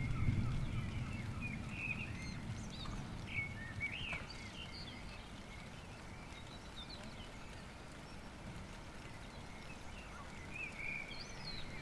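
A low rumble of thunder dies away over the first couple of seconds. Birds chirp and call throughout in an early-morning dawn chorus.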